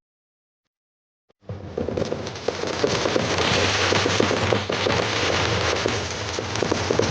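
Near silence for about a second and a half, then a fireworks barrage starts suddenly: many shells bursting together in a dense, continuous crackling and popping.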